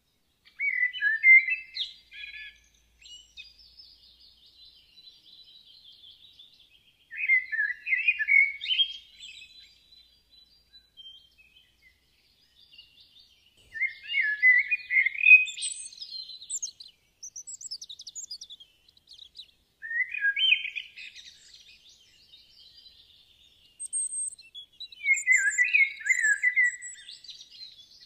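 Songbirds singing: a louder burst of chirping phrases every five to six seconds, with fainter, higher twittering in between.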